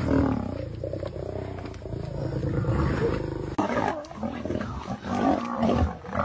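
A lion roaring. A little past halfway the sound changes abruptly, as if cut to a second recording.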